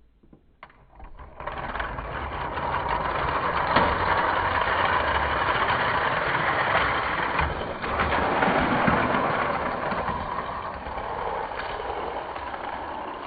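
Die-cast toy cars released with a click, then rolling fast down a plastic race track with a steady rattling rumble that eases off near the end.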